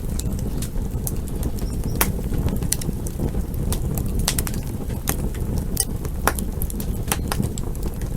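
Wood fire burning with a steady low roar and frequent irregular sharp crackles and pops.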